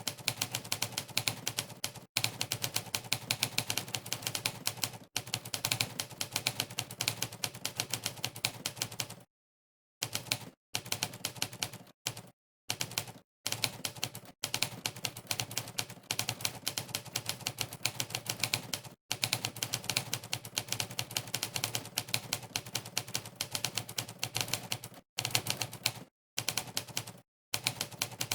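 Monkeytype's typewriter keystroke sound effect, a recorded typewriter key click played for each key pressed during fast typing. The clicks come many per second in dense runs, broken by brief full stops, the longest about nine seconds in.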